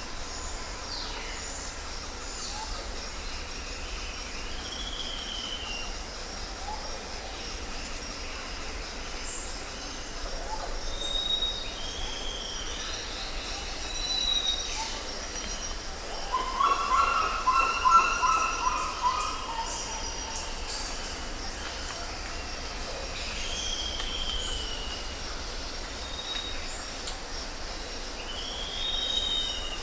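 Jungle ambience: a steady high insect chorus with short whistled bird calls every few seconds. A louder, lower pitched call runs for about three seconds past the middle and is the loudest thing heard.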